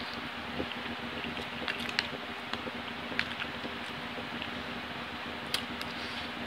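A person eating rice from a plastic spoon: close chewing and wet mouth sounds, with a few sharp clicks of the spoon. A steady hum runs underneath.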